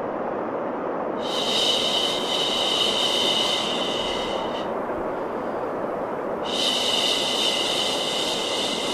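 Steady white noise for baby sleep, with two long "shhh" shushing sounds laid over it, each about three seconds long: one about a second in, the next starting near the end.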